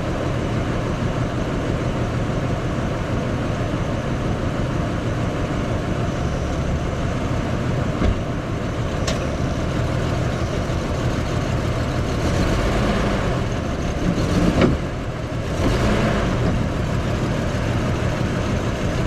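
A motor vehicle running steadily, with a continuous low rumble. A few short clicks come around the middle, and a sharper clunk follows a few seconds later.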